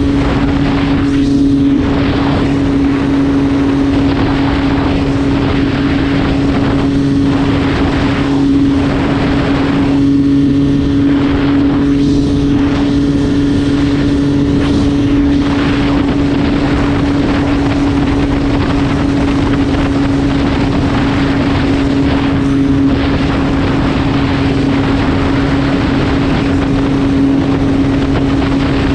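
MV Agusta F3 675's three-cylinder engine holding a steady note at constant road speed, with wind rushing over the microphone.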